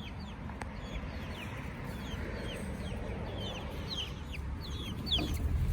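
Chickens calling: many short, high, falling peeps overlap one another, typical of month-old chicks. A low rumble runs beneath and grows louder near the end.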